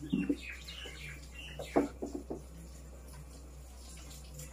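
Small birds chirping repeatedly in quick short falling notes, fading out about halfway through. Over them come a few knocks and rubs from a whiteboard being wiped by hand, the loudest a little under two seconds in.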